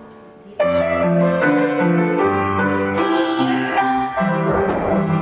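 Piano music: a phrase dies away, then a new phrase of chords starts loudly about half a second in and carries on steadily.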